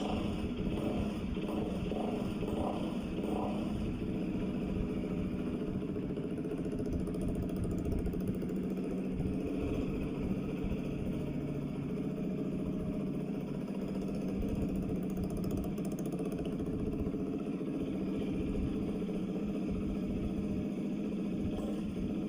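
Bajaj Dominar 400's single-cylinder engine running steadily through an aftermarket full exhaust with a titanium muffler.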